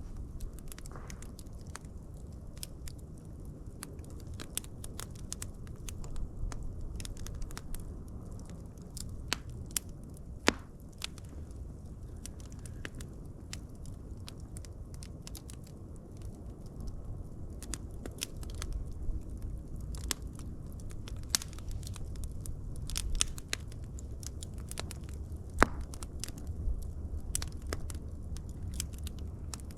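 Wood fire burning steadily, with a low rumble of flame under irregular crackles and small pops. Two louder pops stand out, about ten seconds in and near the end.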